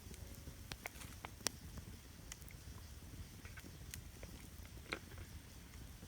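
Wood campfire crackling: scattered sharp pops, the loudest about a second and a half in, over a low steady rumble.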